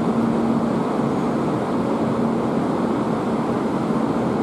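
Shinkansen train standing at the platform before departure, its on-board equipment giving a steady rushing hum with a faint held tone.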